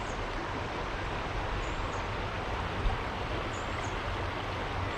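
Small creek running steadily over stones, an even rushing of water. Three faint, short high chirps sound over it.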